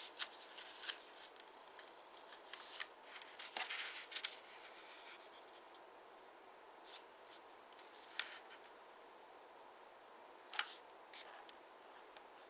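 A 15 cm sheet of origami paper being folded and creased by hand: faint rustling, with short crisp crackles and scrapes as folds are pressed, a busier patch of handling in the middle and a few sharp single paper clicks later.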